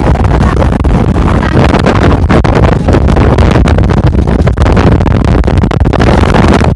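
Loud, steady motorboat engine running, with wind buffeting the microphone.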